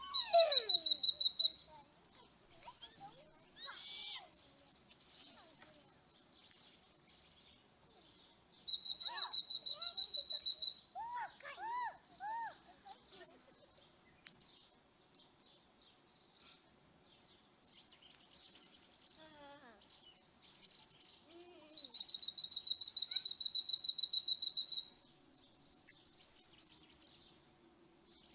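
Several birds calling: a fast, high-pitched trill comes three times (at the start, about nine seconds in and about twenty-two seconds in), among falling whistles and short chirps.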